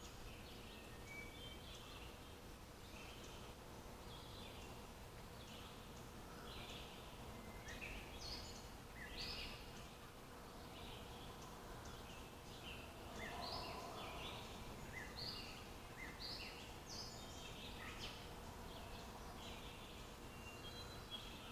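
Several small birds chirping and calling in quick, short notes, one after another, at a quiet level over a soft outdoor background, with a faint steady hum underneath.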